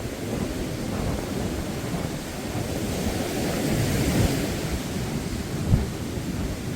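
Sea surf washing onto a beach, with wind rumbling on the microphone; a wave swells and washes in about four seconds in. A brief low thump comes near the end.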